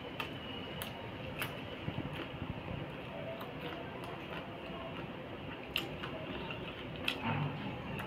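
A person chewing food, with several sharp mouth clicks and smacks scattered through, over a steady hiss.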